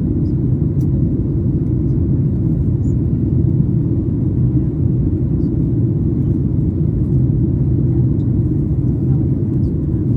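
Cabin noise of a Boeing 737 MAX 8 in flight: a steady low rumble of engines and airflow that does not change.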